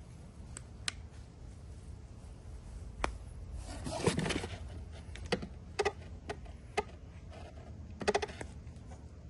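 Tools and metal parts being handled during mower-deck spindle work: a string of separate clicks and clinks, some ringing briefly, with a longer scrape about four seconds in as the loudest sound.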